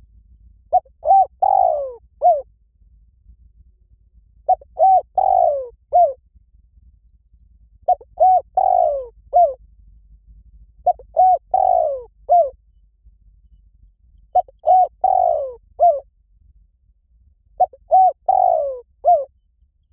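Spotted dove cooing: six phrases repeating about every three and a half seconds, each two short coos, a longer falling coo and one short final coo.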